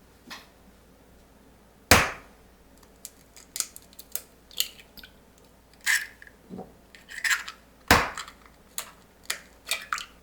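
Kitchen utensils and dishes being handled: a run of short clicks and knocks, with two sharp, louder knocks about two seconds in and again about eight seconds in.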